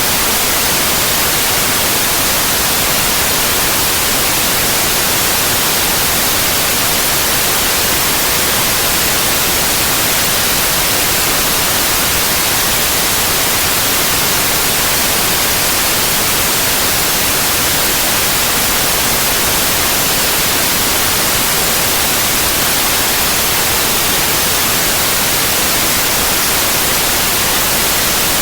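Steady white noise: an even hiss, constant in level, with no changes or interruptions.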